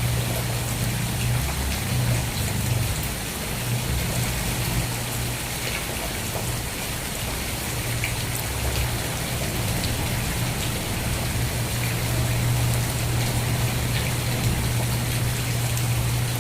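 Steady rain falling, with many small drops pattering on a surface, over a constant low hum.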